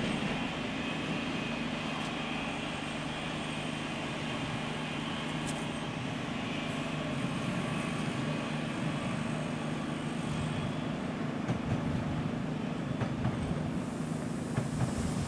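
Renfe Cercanías electric commuter trains running through the station tracks: a steady low hum of the trains with rail noise, and a few sharp clacks of wheels over the rails in the last few seconds.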